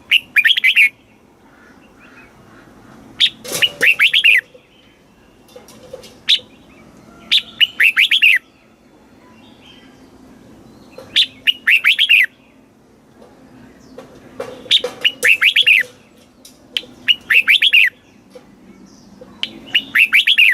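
Red-whiskered bulbul singing short, bright phrases about every three seconds, each a single note followed by a quick run of falling, slurred whistles.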